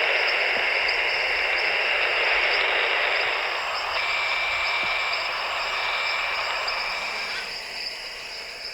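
Rainforest insect chorus: a dense steady hiss with a pulsing high buzz above it and a thin sustained whine joining in midway, the hiss easing off near the end.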